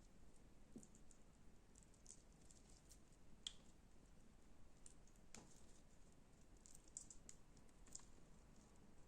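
Faint, irregular crackling clicks of slime being pressed and handled, with a few sharper pops scattered through.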